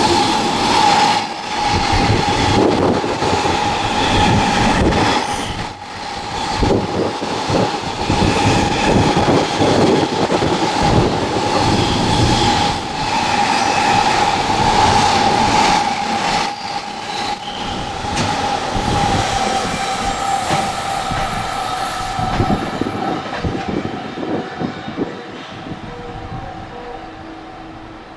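A JR West electric train passing at speed, its wheels clattering over the rail joints with a steady high-pitched whine riding over the rumble. The sound fades away over the last few seconds as the train recedes.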